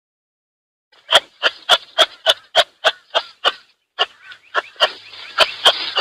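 Kangaroo calling: a quick, even series of short, sharp clicking calls, three or four a second, starting about a second in.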